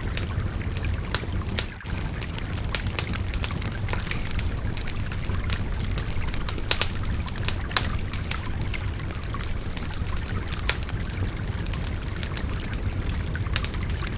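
Wood fire crackling with frequent sharp pops over the steady babbling of a river.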